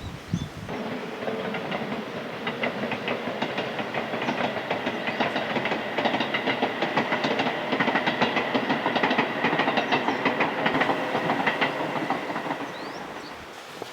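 A train passing by: rhythmic clicking of wheels over the rails with a steady whine, building up, then fading away near the end.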